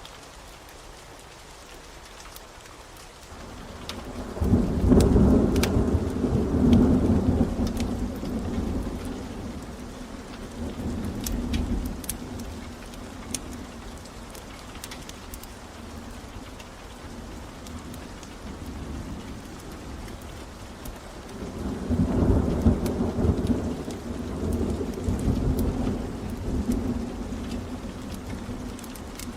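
Steady rain with two long rolls of thunder, the first swelling up about four seconds in and the second about twenty-one seconds in, each fading over several seconds. Scattered sharp crackles of a wood fire sound throughout.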